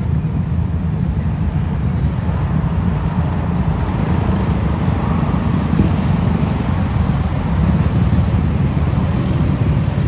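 Motorcycle engines and road traffic running as a steady low rumble.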